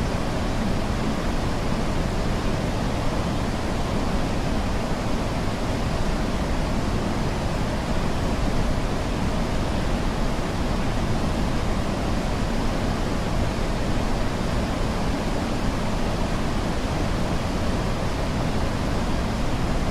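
Niagara Falls' falling water giving a loud, steady rushing roar, heaviest in the low range, that does not change.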